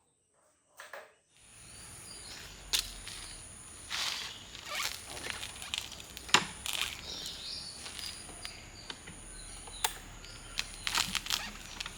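Scattered clicks and knocks over faint outdoor background noise with a steady high-pitched whine, beginning after a second and a half of near silence.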